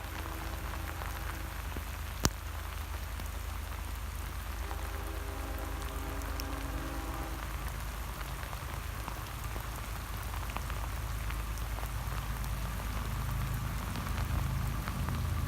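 Steady rain hiss over a low rumble, with a distant locomotive horn chord sounding faintly near the start and again for about three seconds midway. There is one sharp click about two seconds in.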